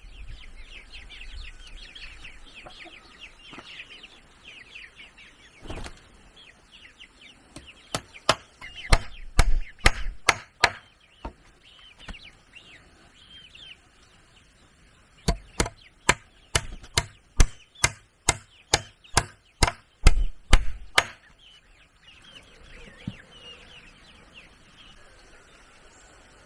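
Repeated sharp chopping blows on wood in two runs of a dozen or so strikes at about two a second. Between the runs, birds chirp and chickens cluck.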